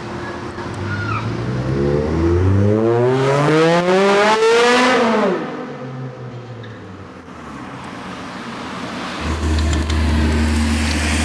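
A sports car engine accelerating hard in a tunnel, its pitch climbing steadily for about three seconds and then falling away sharply. Near the end, a deep, steady low rumble from another car's engine.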